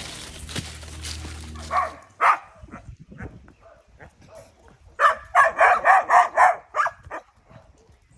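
A dog barking: a bark about two seconds in, then a quick run of about eight barks between five and seven seconds in.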